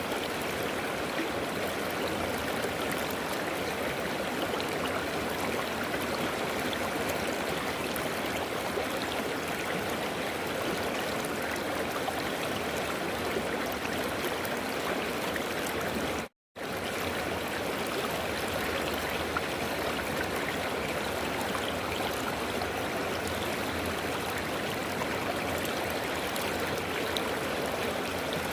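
River water flowing steadily, with a split-second gap of silence about sixteen seconds in.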